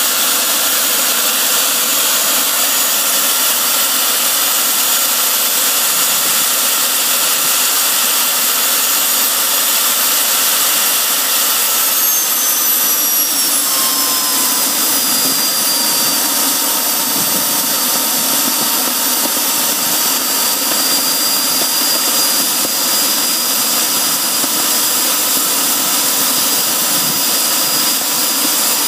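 Jet engine running with a loud, steady rush and a high turbine whine. Its pitch slides down about twelve seconds in, as the engine slows a little, then holds steady.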